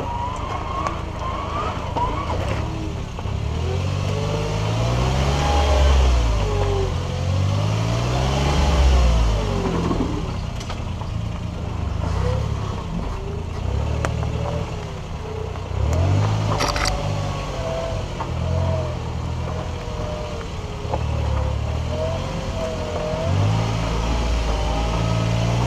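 Suzuki Jimny's engine running in low gear on a rough dirt track, its note rising and falling again and again as the throttle is worked over the bumps. A sharp knock sounds about 17 seconds in.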